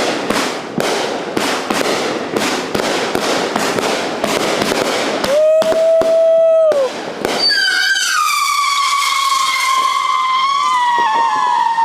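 Consumer fireworks going off: rapid crackling pops for about the first seven seconds, with a short steady whistle in the middle. Then a long shrill whistle starts that slowly falls in pitch and holds to the end.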